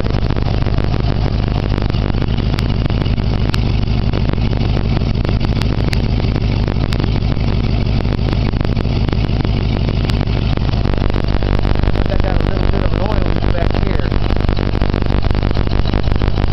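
1937 flathead V8 engine idling steadily, heard up close. About eleven seconds in, its note evens out and gets slightly louder.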